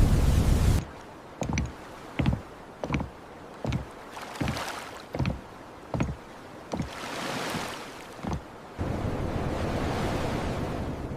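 Steady rumbling noise cuts off, and a run of about ten short, dull thumps follows, each under a second after the last. Steady rumbling noise returns near the end.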